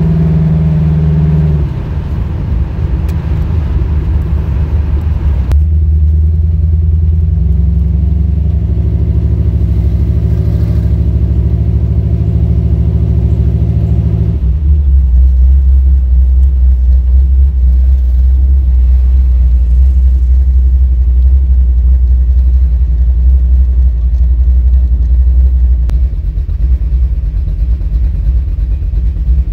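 Chevrolet small-block 357 V8 with a Comp Cams XE274 camshaft running loud and steady, its pitch dropping in steps about two seconds in and again about halfway through. The owner reports it stumbling and misfiring under acceleration around 2500–3000 rpm, and suspects a valve or compression problem.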